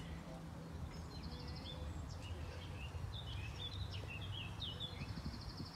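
Small songbirds chirping: many short high calls and two quick rattling trills, one about a second in and one near the end, over a steady low outdoor rumble.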